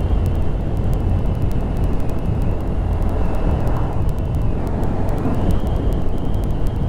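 Honda Grom 125's small single-cylinder engine running under way, with heavy wind rumble on the microphone. A high whine over it drops a little in pitch for a couple of seconds and rises back about five seconds in.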